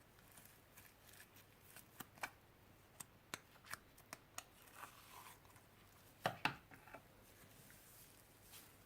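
Small handling noises from slime making: a scattered series of short sharp clicks and snips, the two loudest close together about six seconds in.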